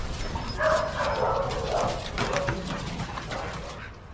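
Dogs at play vocalizing for about two seconds, over a steady low rumble, then growing quieter toward the end.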